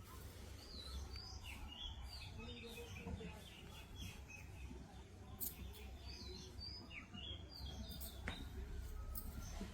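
Small birds chirping, many short quick calls, faint, over a steady low rumble.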